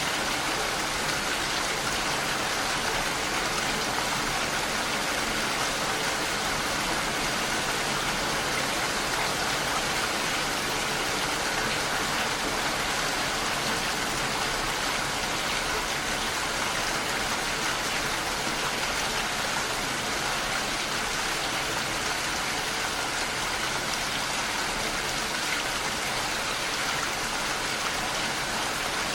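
Heavy rain falling steadily on a window, a dense even hiss without pauses or separate drips.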